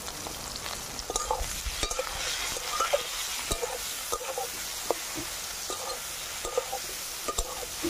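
Eggplant sticks frying in mustard oil in a metal kadai, sizzling steadily while a spatula stirs them, scraping and knocking against the pan in irregular clicks.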